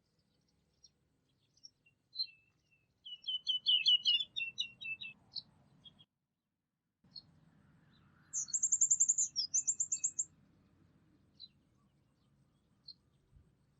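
Songbirds singing: a quick jumbled phrase about three seconds in, then a high, rapid trill in two parts around eight seconds in, with scattered single chirps between.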